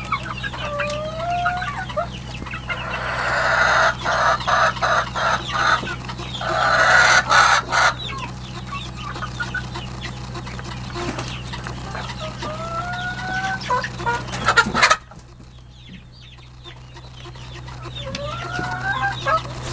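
Chickens clucking, with short rising calls and two loud harsh squawking bouts a few seconds in. Under them a steady low hum runs and cuts off suddenly about 15 seconds in.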